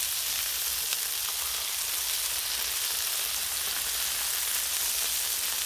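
Slugburger patties of ground beef mixed with breadcrumbs frying on a hot Blackstone flat-top steel griddle: a steady high sizzle.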